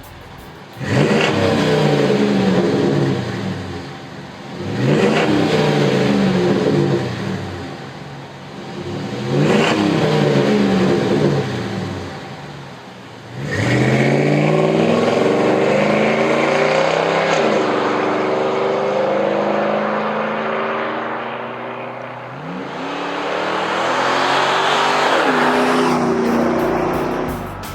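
Dodge Ram's 5.7L Hemi V8 through a Flowmaster American Thunder cat-back exhaust, revved sharply three times, then held under throttle in a long run whose pitch rises, eases off and climbs again near the end.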